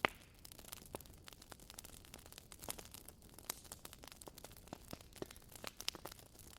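Wood fire crackling in a fireplace: irregular pops and snaps, with one sharp pop at the very start.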